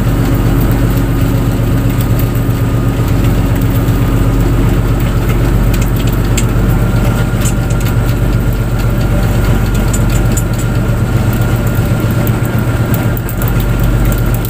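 A fishing boat's engine running steadily with a deep, even drone and a faint high whine over it.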